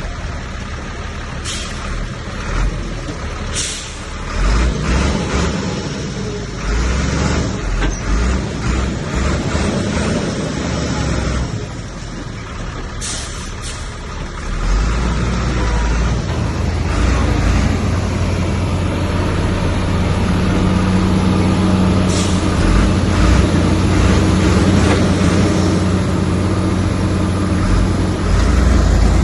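Heavy diesel earthmoving machinery working: a bulldozer and dump truck engines, with a few short sharp air-brake-like hisses in the first half. About halfway through, an engine comes up to a louder, steady, even drone under load.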